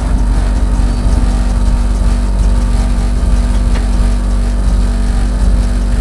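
Rally car's engine idling steadily with an even drone, heard from inside the cabin.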